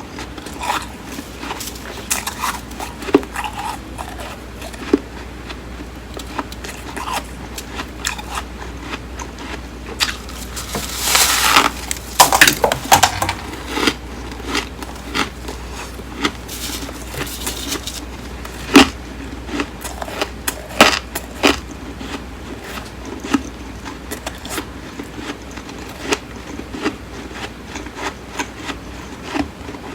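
Close-miked biting and chewing of flaky freezer frost: crisp crackles and crunches, with a dense run of crunching about a third of the way in.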